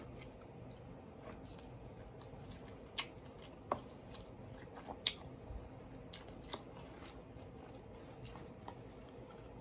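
Soft chewing of food with scattered sharp clicks, the strongest a few seconds in.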